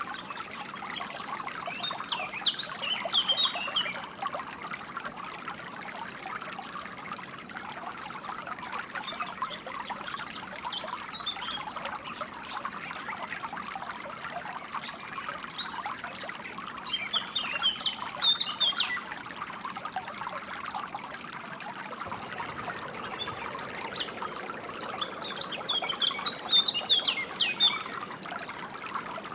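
Water trickling and flowing steadily, like a small stream, with a songbird chirping in four short bouts spaced several seconds apart.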